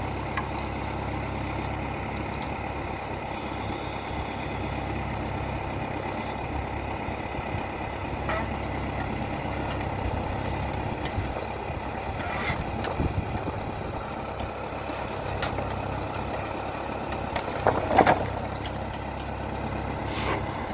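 Valmet 705 tractor's diesel engine running steadily under load, with a few scattered knocks and clanks, the loudest a short cluster near the end.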